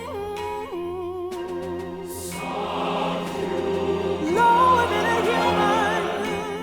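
Choral-orchestral music: voices hold long notes with vibrato over the orchestra. The sound swells about halfway through and peaks on a high held sung note around two-thirds in.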